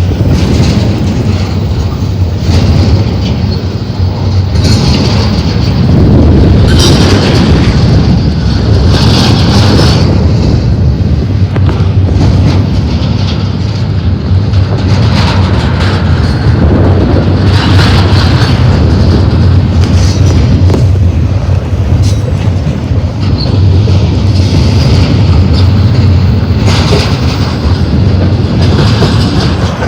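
Double-stack intermodal freight train rolling past, a steady loud rumble of steel wheels on the rails with irregular clatter from the cars.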